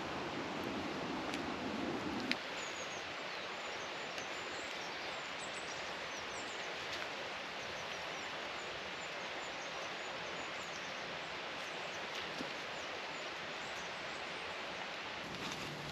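Steady outdoor background noise with small birds chirping in quick high notes for several seconds, starting about two and a half seconds in; a lower rumble stops abruptly just before.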